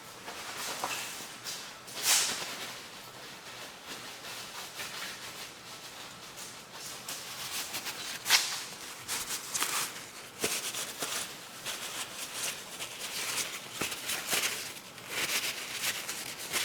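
A cloth rubbing and wiping over a lawnmower's air filter backing plate to dry it, in irregular swishes with occasional light knocks from handling the part.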